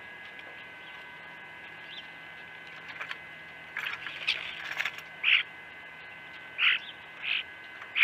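A northern flicker lands on a wire suet cage with a brief flutter and rattle about four seconds in, then makes four short scraping knocks as it clings and feeds. A faint steady electrical hum runs underneath.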